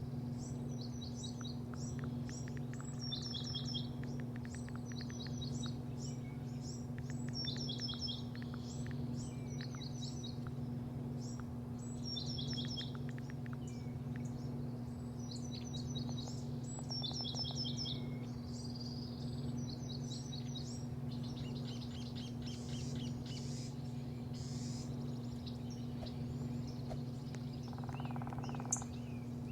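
Small birds chirping in quick repeated phrases of short high notes, over a steady low hum.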